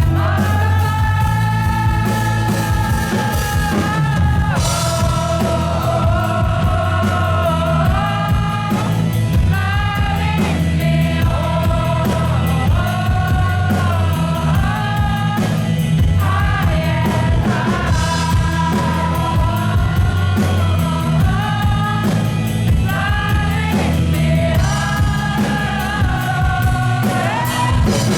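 Live band performance of a slow song: long held sung notes that slide from one pitch to the next, over a steady bass and backing, with a choir-like fullness to the voices.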